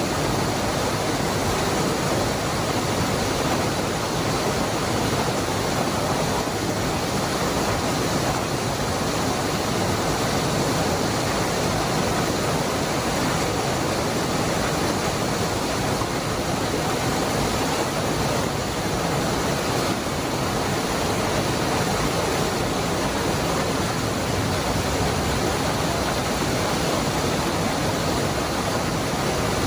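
Cascada del Hervidero waterfall, water pouring in a steady, unchanging rush.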